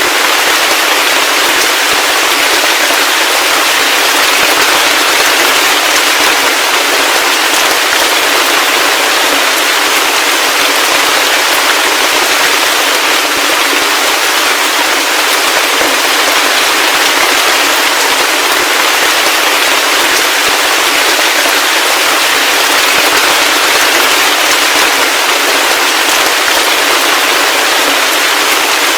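Heavy rain falling steadily: a loud, even hiss of dense crackling drops with no low rumble and no let-up.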